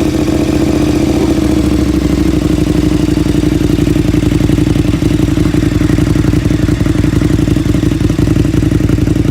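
A 2017 KTM Super Duke GT's V-twin idling steadily through an aftermarket SC Projects exhaust, loud and even with no revs.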